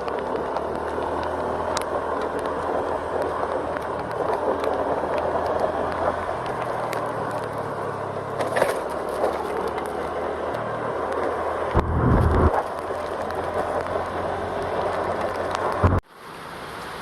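A vehicle travelling along a road: a steady low engine hum under constant tyre and wind noise, with a brief low rumble about twelve seconds in. About a second before the end the sound cuts out suddenly and gives way to a steadier hiss.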